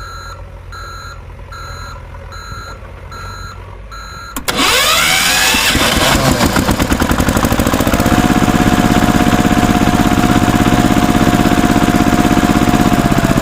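Electronic reversing beeps, about two a second, then about four seconds in a sudden loud engine sound that starts, revs up and runs on steadily.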